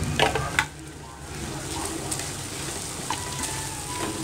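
Mutton pieces sizzling in hot oil in a frying pan, with a metal spoon scraping and clicking against the pan a few times as turmeric and chilli are stirred into the meat.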